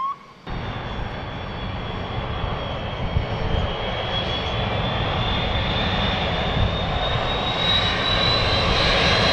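Jet engines of a Boeing 767-300 airliner on short final approach, growing steadily louder as it nears, with a high fan whine rising slightly in pitch. The sound starts suddenly about half a second in.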